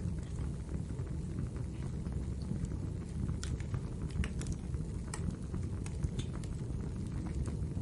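Wood fire crackling in a fireplace: a steady low rumble of burning with scattered sharp pops and snaps, thickest from about three to six seconds in.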